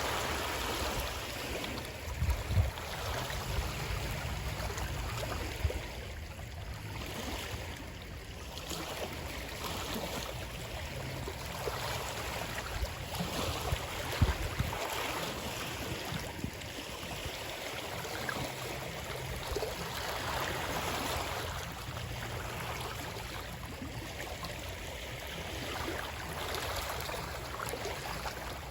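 Running water, a steady rushing splash with a few brief low thumps, one about two and a half seconds in and another about halfway through.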